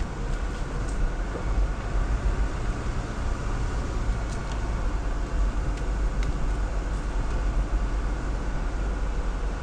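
Jeep Wrangler Rubicon driving slowly on a snowy trail: a steady low engine and drivetrain rumble, with a few faint clicks or knocks.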